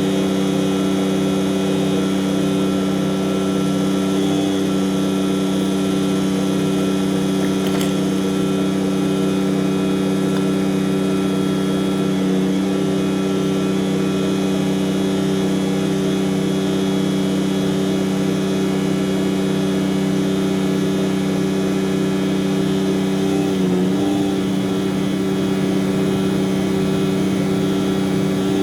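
Tanker truck's diesel engine running at a steady speed, with a brief wobble in pitch about 24 seconds in.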